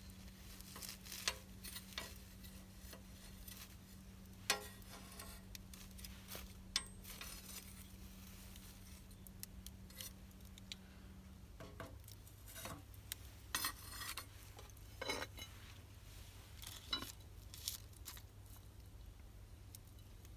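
Scattered light clinks and taps of metal cookware and utensils being handled, a few of them sharper and louder, over a low steady hum. Part of the hum stops a little past halfway.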